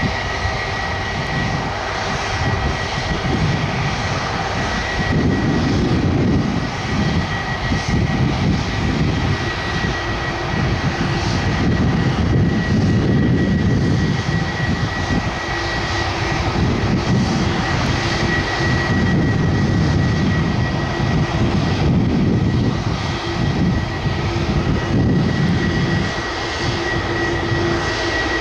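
Jet airliner's engines at takeoff thrust: a continuous rumbling roar with a steady high whine. A lower steady hum joins about halfway through.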